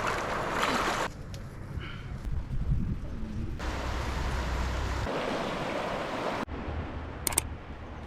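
A steady outdoor rushing noise, changing abruptly several times as if joined from separate takes, with a couple of faint clicks near the end.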